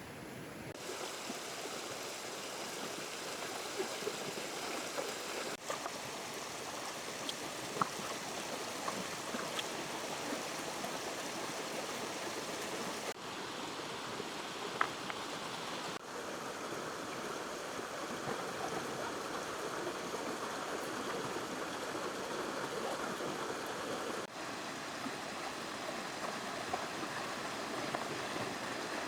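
Steady rushing of a flowing river, with a few faint, brief clicks over it.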